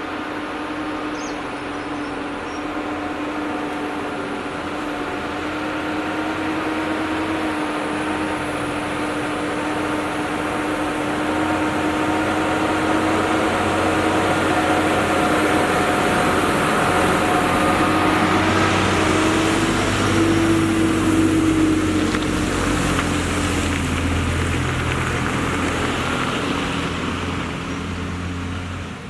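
A heavily loaded lorry's diesel engine pulling uphill: a steady drone that grows louder over about twenty seconds, then eases off near the end.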